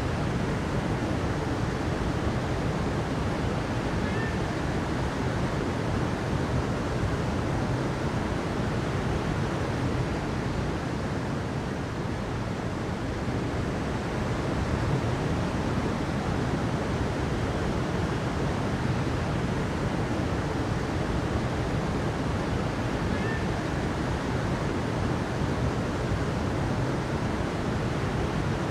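Rushing water, a steady, unbroken roar of flowing water with its weight in the low and middle range.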